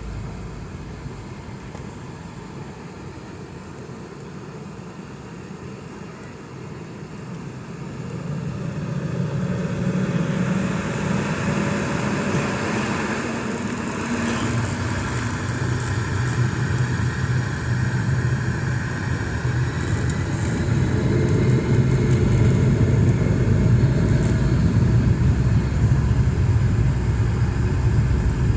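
Boeing 717's twin Rolls-Royce BR715 turbofans spooling up to take-off thrust. The engine whine rises in pitch and the low rumble grows steadily louder from about a third of the way in.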